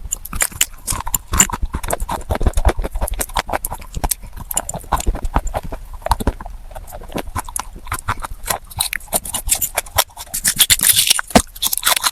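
Close-miked crunching and chewing of baked red clay: dense, irregular crisp cracks with a harsher, hissier crunch near the end.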